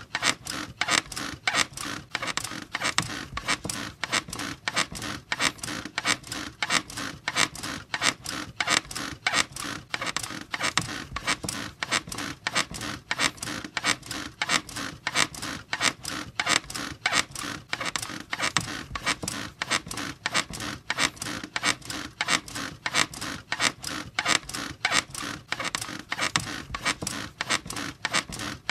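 A bed squeaking in a steady rhythm, about two to three creaks a second, evenly repeated.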